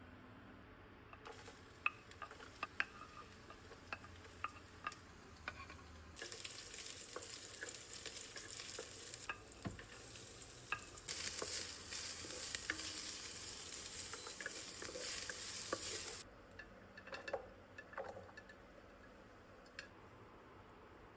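Broccoli and mushroom stir-fry sizzling in a hot pan, with scattered light clicks before and after. The sizzle starts about six seconds in, grows louder about eleven seconds in, and stops suddenly about sixteen seconds in.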